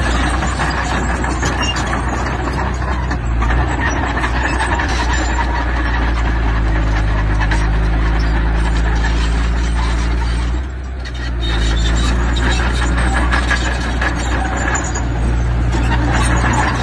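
Diesel engine of heavy earthmoving machinery running steadily under load, with a dense rattling, clattering noise over it. The engine eases off briefly about eleven seconds in.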